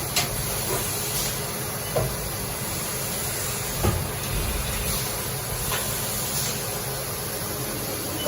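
Haas VF-2SS vertical machining center running with a steady hiss, with a few light clicks about two and four seconds in.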